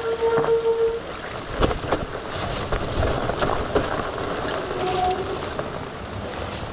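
Fast-flowing creek water rushing steadily, with scattered knocks and clatter. A short steady squeal runs through about the first second.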